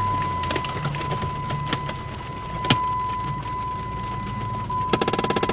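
A Jeep's electronic warning tone held steady and high, over the low hum of the idling engine, with a few clicks. It is a fault the owner notes: the Jeep keeps sounding it, which it is not supposed to do on starting up. About five seconds in, a rapid, even pulsing sound starts.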